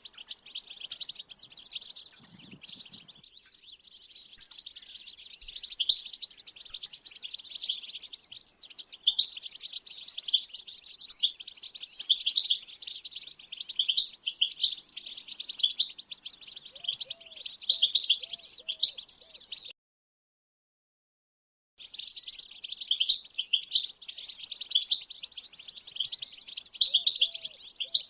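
European goldfinch twittering song: a rapid, unbroken stream of high chirps and trills. It cuts to complete silence for about two seconds a little past two-thirds of the way through, then resumes.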